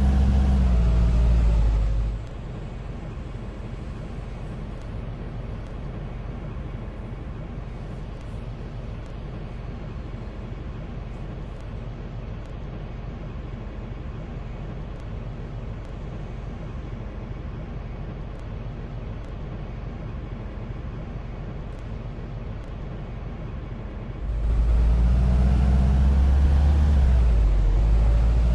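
Road vehicle engine running close by, its rumble with a whine that falls during the first two seconds, then dropping abruptly to a quieter steady noise. The loud rumble returns abruptly near the end, its whine rising and falling.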